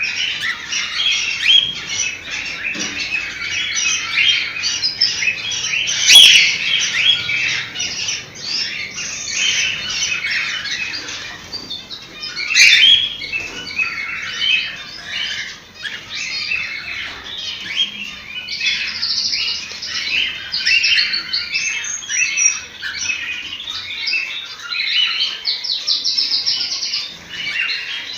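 Several cockatiels chirping and calling over one another without pause, with two louder, sharper calls about six and twelve seconds in.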